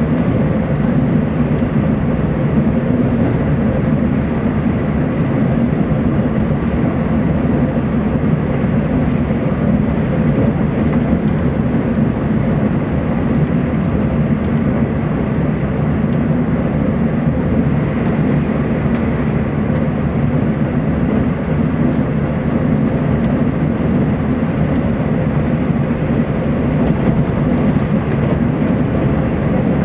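Steady cabin running noise of a Taiwan Railways TEMU2000 Puyuma electric multiple unit on the move, heard from inside the passenger car: a low rumble of wheels on rail under an even hiss, at a constant level.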